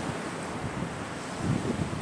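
Sea surf washing on a shore, a steady rush. From about halfway in, wind buffets the microphone in low, uneven gusts.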